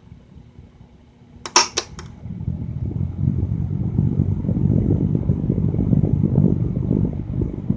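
A few sharp clicks, then an electric fan blowing hard: its air stream rumbles and flutters on the microphone from about two seconds in.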